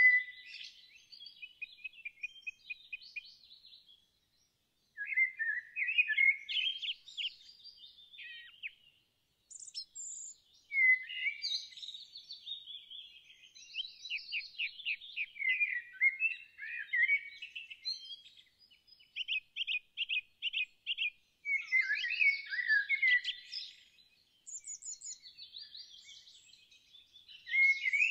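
Songbird singing: phrases of rapid chirps, trills and quick pitch sweeps, broken by short pauses.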